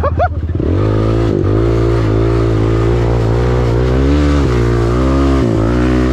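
Dirt bike engine running under way on a trail, its pitch rising and falling a little as the throttle is worked, with short brief let-offs.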